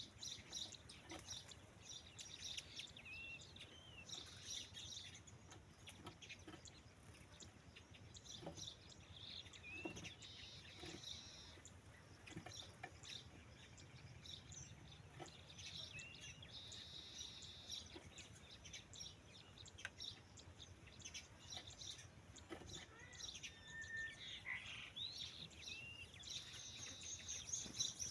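Faint birds chirping and calling, many short chirps and brief whistled notes scattered throughout, over a low steady background rumble.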